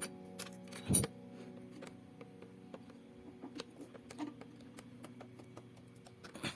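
Sparse light clicks and taps of small metal parts and tools being handled on a sewing machine, the loudest about a second in, over faint held notes of background music.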